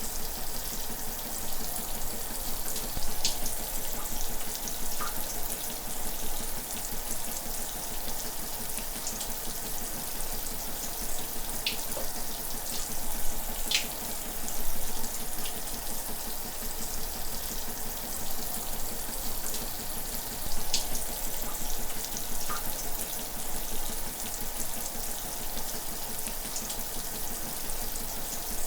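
Shower running: a steady hiss of spraying water, with a few brief sharp ticks of drops now and then.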